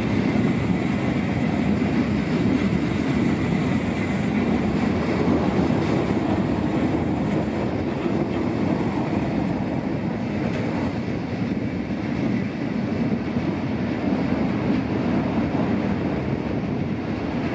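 NS ICM "Koploper" intercity electric train rolling along the platform and pulling away, a steady rumble of wheels on rails that slowly eases as it recedes.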